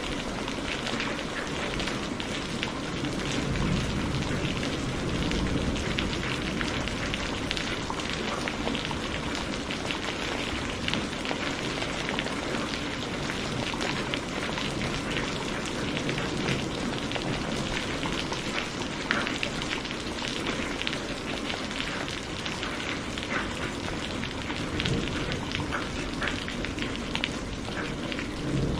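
Steady rain falling on a surface, a dense even patter of drops with many small sharp splats over a low background wash.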